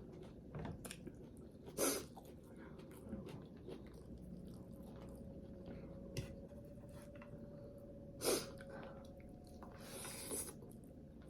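Close-miked eating: chewing with many small wet clicks. Two short, sharp, loud sounds stand out about two seconds and eight seconds in, and a longer hiss follows near the end.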